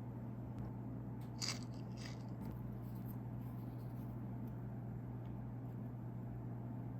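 Two short crunches of a bite into a crisp meringue sweet, about one and a half and two seconds in, over a steady low hum.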